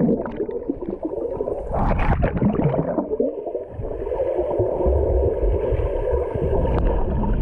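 Muffled underwater sound as heard by a submerged GoPro's built-in microphone: gurgling, bubbling water with a low rumble. It surges louder about two seconds in.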